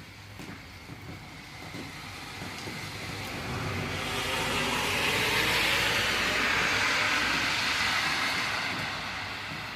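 A vehicle passing on a wet road: tyre hiss swells over a few seconds, peaks about halfway through, then fades away, over the steady sound of rain.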